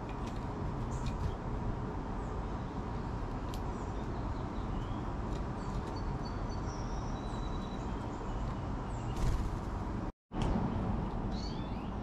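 Outdoor background of a steady low rumble with faint, short high bird chirps scattered through it and a few light clicks. The sound cuts out completely for a moment about ten seconds in.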